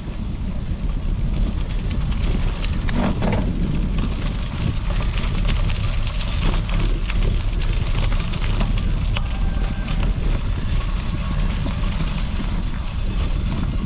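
Wind rumbling on the microphone while bicycle tyres roll over gravel with a steady crackle.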